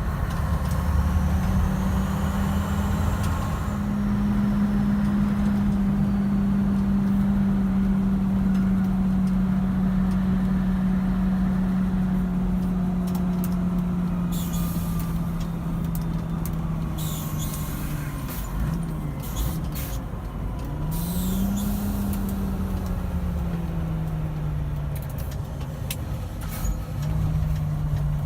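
Scania 143 500's V8 diesel engine running steadily on the road, its note slowly sinking. About two-thirds through the note drops away, then climbs back and eases down to a steady lower pitch.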